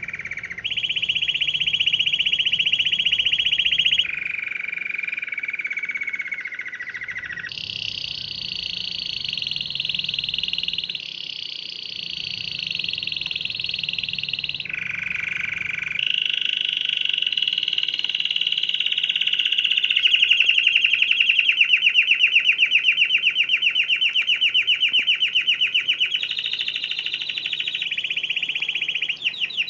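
Domestic canary singing a long run of rolled tours. Each phrase holds one pitch for one to four seconds, then jumps to another, and the song turns into a fast, loud trill in its last third.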